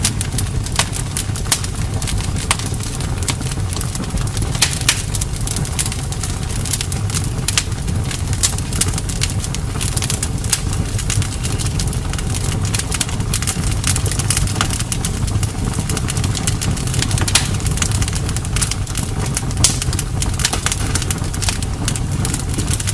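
Campfire crackling, with frequent sharp pops over a steady low rumble.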